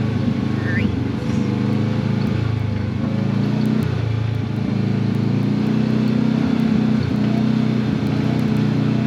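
Side-by-side UTV engine running steadily at trail speed, its pitch rising and falling a little with the throttle.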